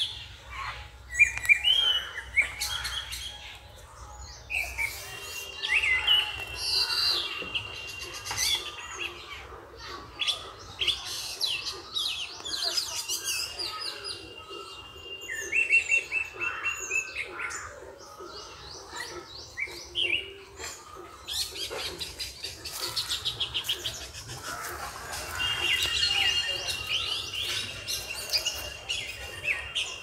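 Several birds chirping and singing together: overlapping short chirps, whistles and trills, with a high, steady trilling note that comes back several times.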